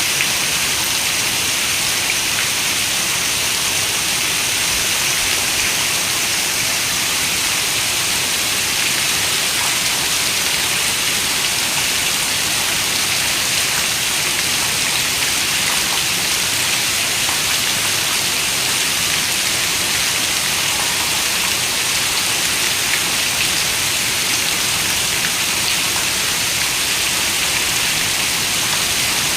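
Steady rain falling: an even, unbroken hiss of many raindrops, with no thunder.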